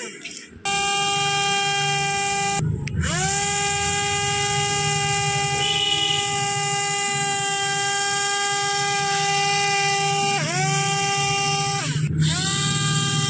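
Small DC motor spinning a propeller with a steady high whine. It cuts out three times and speeds back up to pitch each time, and it sags briefly in pitch once near the end.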